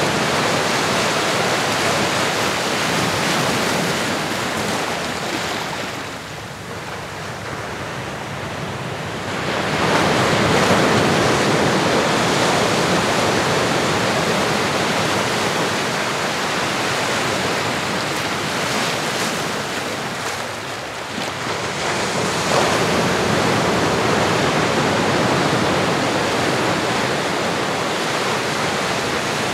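Ocean surf: waves breaking and washing ashore in a steady rush that ebbs and swells. It falls away about six seconds in and again around twenty seconds, then surges back each time.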